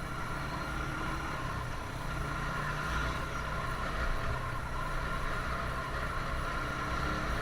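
Single-cylinder engine of a TVS Apache RTR 160 motorcycle running steadily under way, mixed with road noise.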